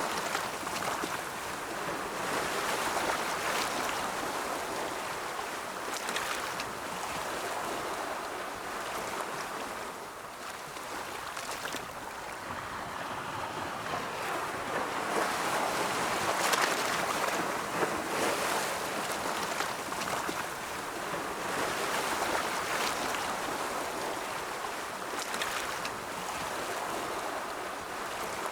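Ocean waves rolling in: a steady hiss of surf that swells and eases over several seconds, with brief splashy crests now and then.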